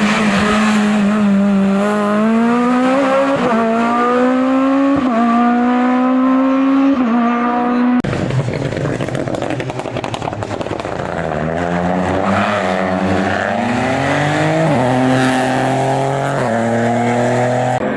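Hill-climb race car engines at full throttle. One car accelerates hard, its note rising and dropping back at quick upshifts about every one and a half to two seconds, and it cuts off abruptly about eight seconds in. A second car then comes up through the gears the same way.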